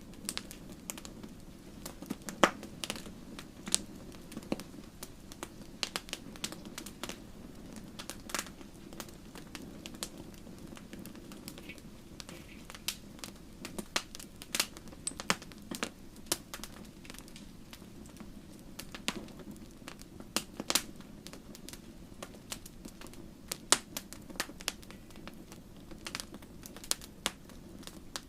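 Wood fire in a fireplace crackling: irregular sharp pops and snaps of burning wood, a few every second, over a low steady rush of the flames.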